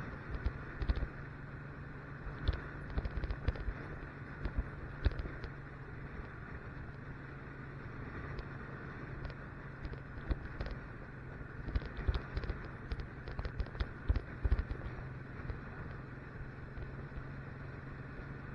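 Motorcycle engine running steadily while riding, with irregular knocks and crackles over it that come in clusters.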